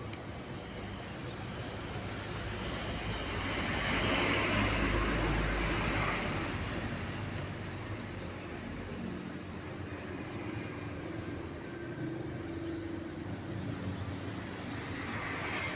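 A passing motor vehicle or aircraft engine: a broad engine noise that swells to its loudest about four to six seconds in, then fades into a steady background hum.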